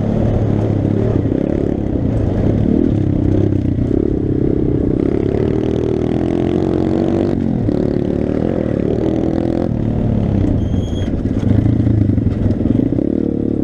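Pit bike engine running under load as it is ridden, its pitch rising and falling with the throttle. About eleven seconds in there is a brief high-pitched squeal.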